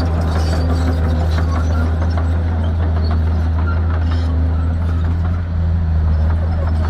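Shantui bulldozer's diesel engine running at a steady speed, a deep even drone with scattered light clicks and clanks over it.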